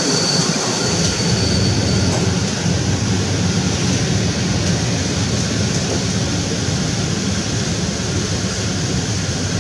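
Passenger train carriage rolling along the track, heard from its window: a steady rumble and hiss of the running gear, with a faint high whine that fades out about two seconds in.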